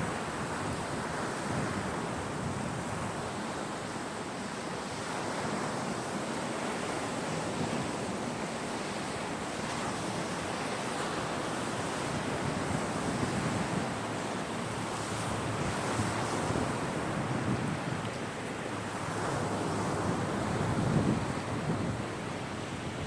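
Sea surf washing onto the shore in slow swells every few seconds, with wind buffeting the microphone.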